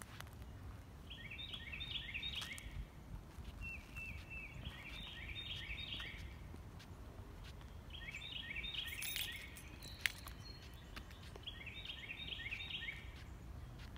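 A songbird singing the same short phrase of quick repeated notes four times, about every three to four seconds, over a low outdoor background rumble. A single sharp click about ten seconds in.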